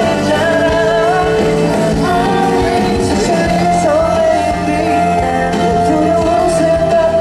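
A pop song performed live: a male singer holding long notes over band accompaniment.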